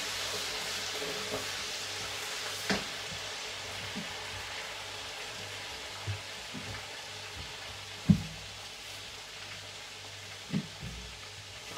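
Food sizzling as it fries in a pot, a steady hiss that slowly weakens, with a few scattered knocks, the loudest about eight seconds in.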